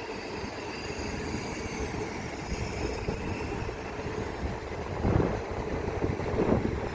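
Class 375 Electrostar electric multiple unit standing at a signal, its onboard equipment giving a steady hum and low rumble with faint steady whine tones above. Two brief louder rushes come about five and six and a half seconds in.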